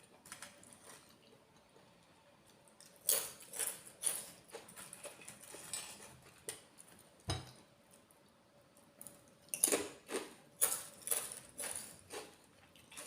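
Close-miked eating sounds: irregular bursts of chewing and mouth noises, bunched in two spells, with a single low thump about seven seconds in.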